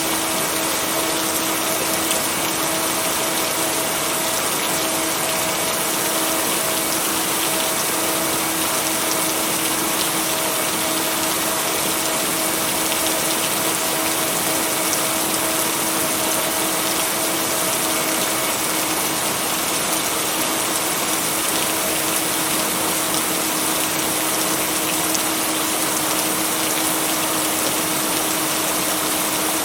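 Steady heavy rain, an even hiss without any thunder, with a steady low tone and its octave above running underneath: a binaural-beat tone blended into the rain.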